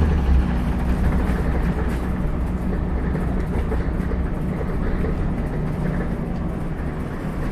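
Scania N94UB double-decker bus on the move, heard from the upper deck: steady engine and road noise. A deep engine drone eases off about half a second in.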